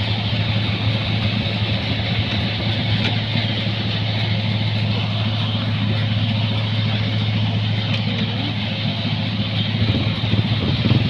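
New Holland 1545-S combine harvester running steadily while harvesting rice: a constant low engine hum under an even mechanical rush.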